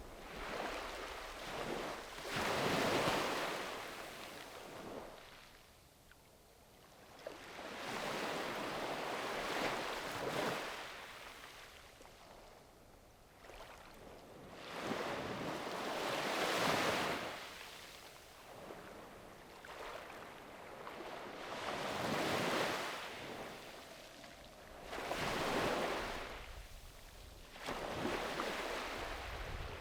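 Sea waves breaking and washing up a beach: each rush of surf swells and fades, one after another every few seconds.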